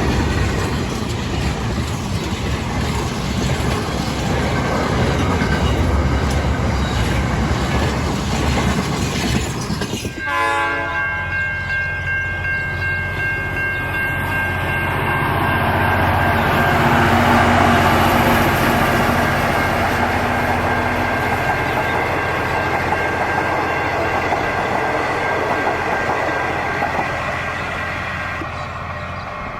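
Intermodal freight train wagons rolling past with a steady rumble and rail clatter. About ten seconds in, the sound cuts abruptly to a steady held chord that swells and then slowly fades.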